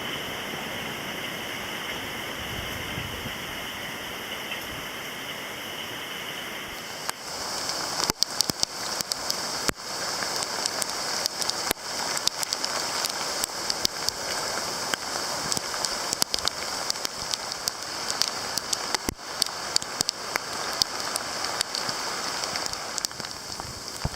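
Rain falling and dripping, a steady hiss; from about seven seconds in, many sharp drops strike close by.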